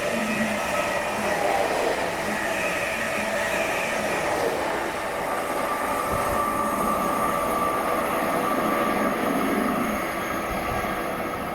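A train running past on the main line: steady rail rumble with a layer of high whining tones, easing off slightly near the end.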